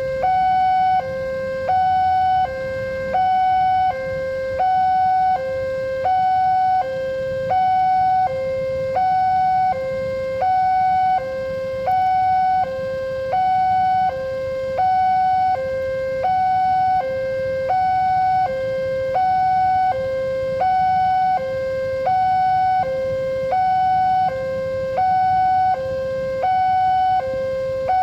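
Electronic warning alarm of an Indonesian railway level crossing sounding. It alternates evenly between a low and a high tone, one full cycle about every second and a half, signalling that a train is approaching and the barrier is closing or closed.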